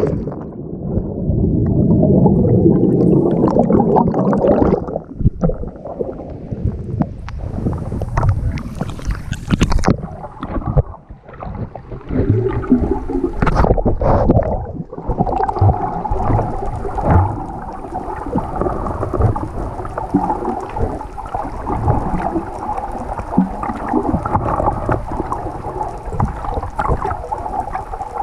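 Muffled gurgling and sloshing of water around a camera held underwater, with a steady hum from about halfway through.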